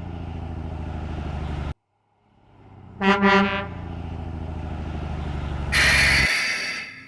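Garbage truck sound effects: a diesel engine idling with a steady pulsing rumble, cut off abruptly just under 2 s in, then fading back in. About 3 s in, the truck horn honks twice. Near the end comes a loud burst of hissing air as the engine sound stops.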